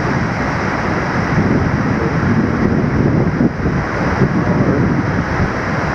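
Steady rushing noise of the Busra waterfall's falling water.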